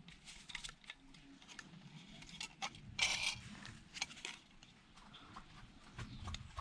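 Scattered small clicks and taps of metal and plastic parts being handled and pried apart with hand tools during a scrap teardown, with a short scraping rattle about three seconds in.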